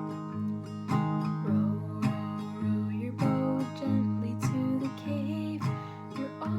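Acoustic guitar strummed in a steady rhythm, about one stroke a second, with a voice singing a children's song over it.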